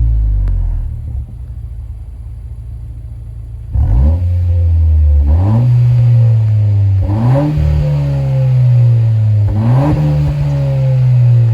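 Honda Civic FL1's turbocharged 1.5-litre four-cylinder through a COLBASSO GT-FOUR stainless and titanium quad-tip aftermarket exhaust. The engine note drops back to a quieter drone about a second in. About four seconds in the revs climb sharply, followed by three more quick rises, each settling into a steady drone.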